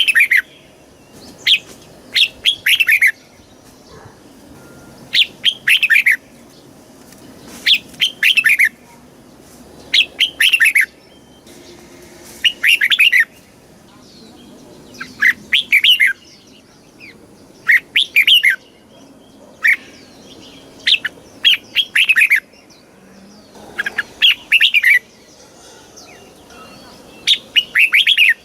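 Red-whiskered bulbul singing short, quick phrases of bubbly whistled notes, about a dozen in all, one every two to three seconds.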